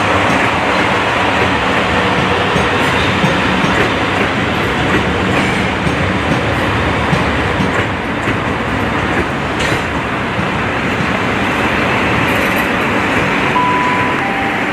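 Train running through a station: a loud, steady rumble of wheels and traction that stays even in level, with a brief higher tone near the end.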